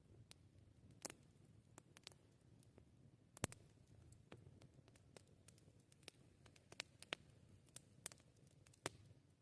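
Wood campfire crackling faintly: irregular sharp pops and snaps over a soft low rumble of the burning, with one louder pop about three and a half seconds in.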